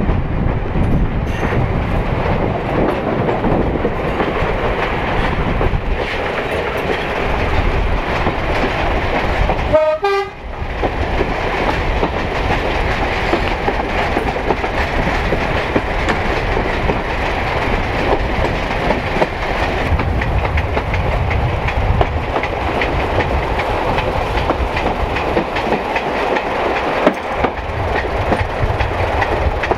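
Derby Class 108 diesel multiple unit running along the line, heard from an open carriage window: a steady rumble of engine and wheels on the rails, with a brief break about ten seconds in.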